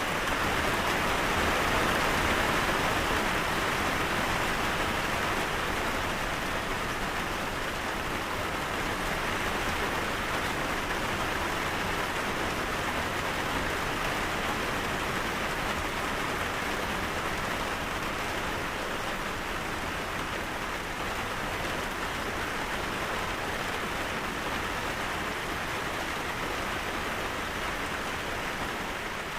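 Steady rain falling, a dense even hiss of many drops, slightly louder in the first few seconds.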